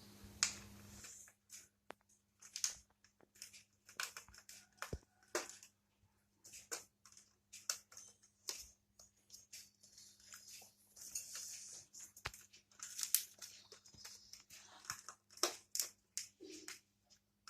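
Small animals pecking, scratching and gnawing: an irregular run of short clicks, crunches and scratchy rustles.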